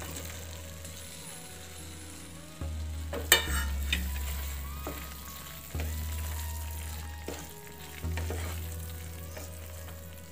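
Paneer cubes in a thick tomato masala frying in a non-stick pan while a wooden spatula stirs and scrapes them, with one sharper knock of the spatula a little over three seconds in.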